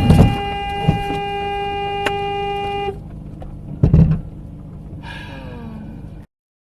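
Car horn held in one steady blast that stops about three seconds in, over road noise, with a loud thump at the start and another about four seconds in.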